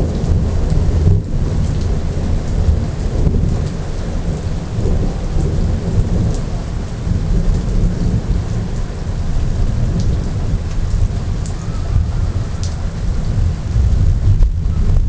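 Thunder rumbling in long, continuous rolls over steady rain falling.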